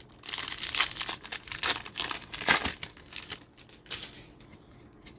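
Foil trading-card pack wrapper crinkling as it is handled and torn open, with dense crackling for about the first three and a half seconds before it dies down.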